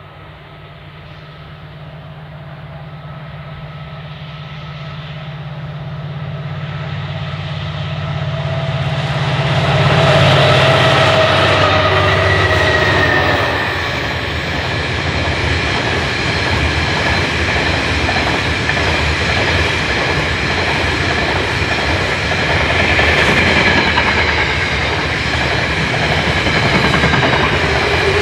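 Grain train led by three diesel locomotives (RL303, RL309 and GML10) approaching: the engines grow steadily louder until they pass about ten to thirteen seconds in, and their note drops as they go by. After that the long rake of grain hopper wagons rolls past with a steady clickety-clack of wheels over the rail joints.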